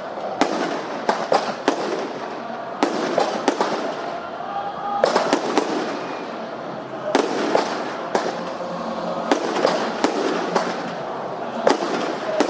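Fireworks display: an irregular string of sharp bangs and crackles from bursting shells, several a second, over a continuous hiss and rumble.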